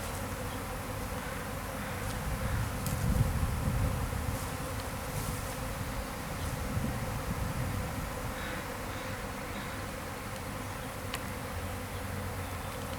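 Buzzing of a honeybee swarm in flight, thousands of bees in the air at once, a steady dense hum after the swarm has left the hive.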